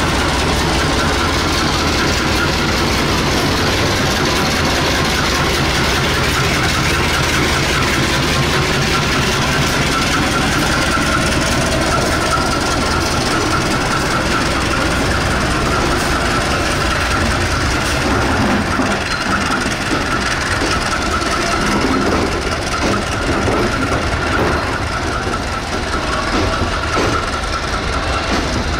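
Passenger train hauled by a CC201 diesel-electric locomotive rolling past: at first the locomotive's diesel engine drones low, then the coaches go by with the clatter of wheels over rail joints. Through much of it a steady high squeal runs over the rolling noise.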